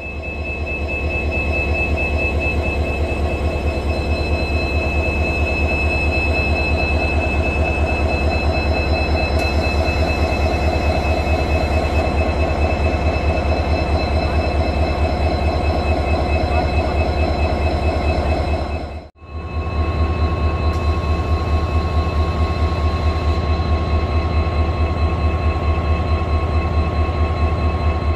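Indian express passenger train running at speed, heard from on board: a steady deep rumble of wheels on rails with a thin steady high whine over it. The sound breaks off for a moment about two-thirds of the way through, then carries on the same.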